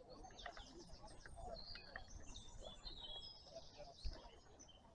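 Faint birdsong: quick warbling trills and chirps from small birds. A single soft knock comes about four seconds in.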